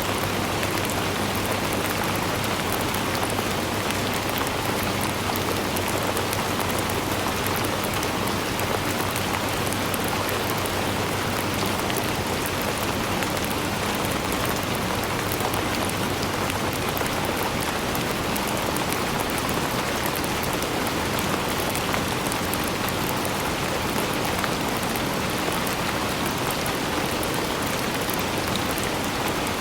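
Steady rain falling, an even hiss of many fine drop impacts with no letup.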